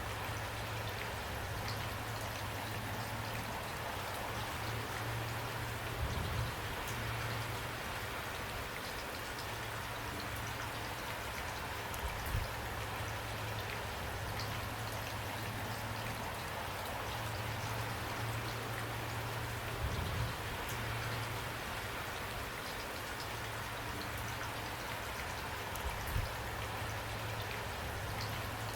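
Steady rain falling as an even hiss, with a low steady rumble underneath and a brief low thump about every six or seven seconds.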